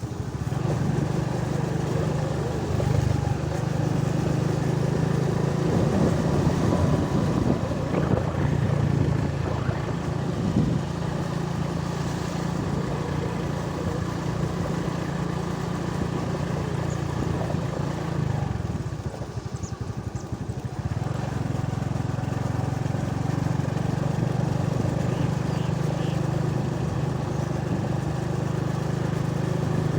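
A vehicle engine running steadily on the move along a road. About two-thirds of the way through it eases off for a couple of seconds, then picks up again.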